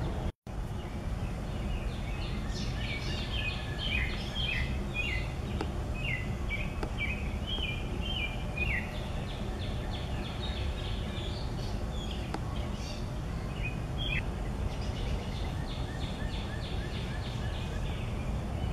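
Small birds singing in quick series of high chirps over a steady low background rumble. The chirping is busiest in the first half and again later on. The sound cuts out for an instant just after the start.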